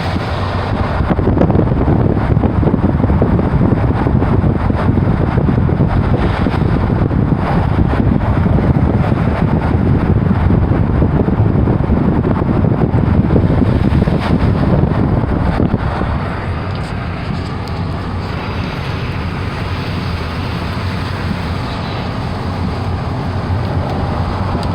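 A moving vehicle with heavy wind rushing over the microphone, steady and loud, easing off somewhat about two-thirds of the way through.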